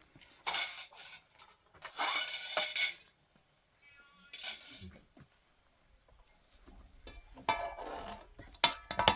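Dishes and cutlery clattering and clinking in short, separate bursts, with a longer, noisier clatter about two seconds in and a quick run of sharp clinks near the end.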